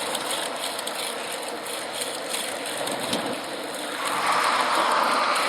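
A recumbent bicycle riding along: steady rolling and wind noise with the drivetrain's mechanical whir, growing louder about four seconds in.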